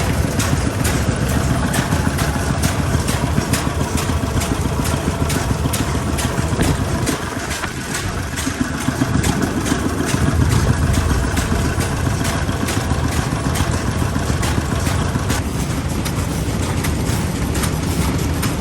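Old single-cylinder stationary engine running at a slow, steady pace, its firing beats coming several times a second.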